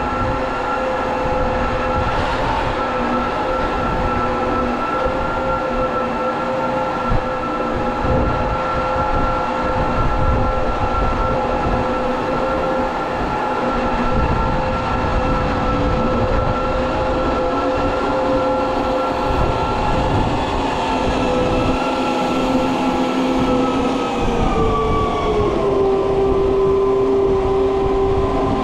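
Heavy diesel machine running steadily under load, with a whining tone over the engine noise. The pitch drops about 25 seconds in.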